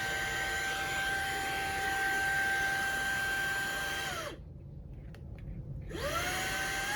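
Fanntik Slim V8 Apex cordless air duster/vacuum motor running with a steady high whine and rush of air. About four seconds in it spins down and stops. After a short pause it spins back up to a higher-pitched whine.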